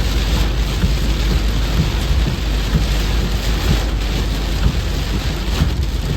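Heavy rain falling, a loud steady hiss, over a continuous low rumble.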